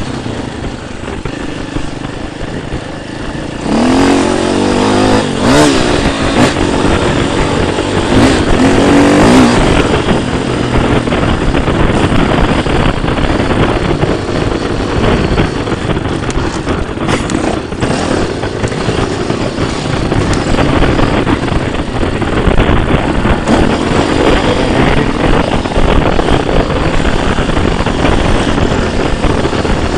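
Dirt bike engine running under way, revving up and down. It gets louder about four seconds in, with the engine note climbing and dropping several times over the next few seconds.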